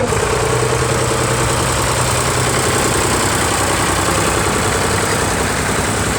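Tractor engine running steadily at a low, even speed close by.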